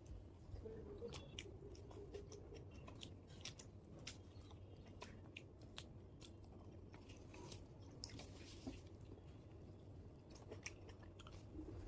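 A person chewing luchi and chicken curry close to the microphone, with many short, wet mouth clicks scattered irregularly throughout.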